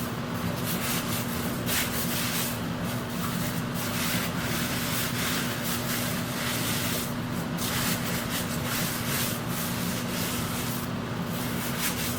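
Electric sander running with a steady motor tone, its abrasive rubbing against a surface with the scraping swelling and fading in uneven strokes.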